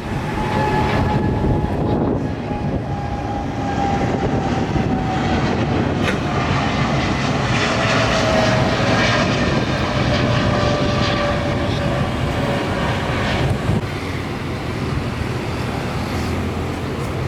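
Airliner engines running loud and steady as the plane passes the airport, with a whine that slowly falls in pitch.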